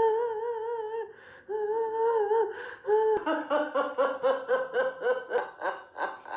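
A high voice holds long wavering notes, then breaks into rapid laughter of about four short falling "ha"s a second.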